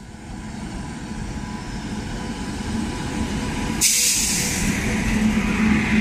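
Express train hauled by a WAP7 electric locomotive passing at speed: a rumble that builds steadily, then a sudden loud rush of air and wheel noise about four seconds in as the locomotive goes by.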